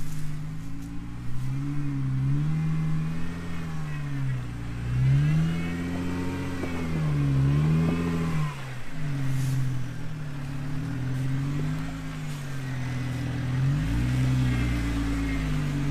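A Jeep engine revving up and down over and over under heavy load while climbing a steep off-road obstacle. The pitch swells and drops every second or two.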